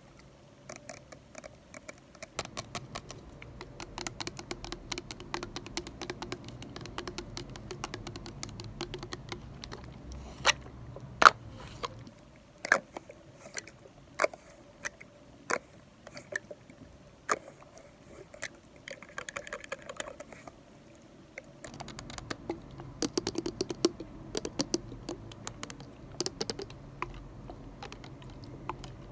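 Rapid light tapping and clicking close to the microphone, an ASMR trigger sound, with a few sharper, louder clicks between about ten and seventeen seconds in and a short scratchy rustle just after.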